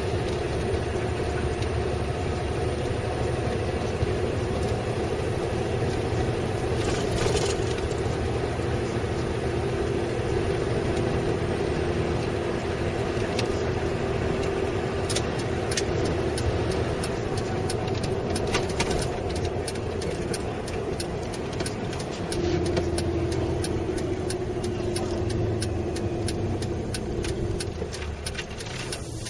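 M.A.N. truck's diesel engine running with road noise, heard from inside the cab: a steady drone whose pitch shifts about 22 seconds in, with scattered light clicks and rattles around the middle.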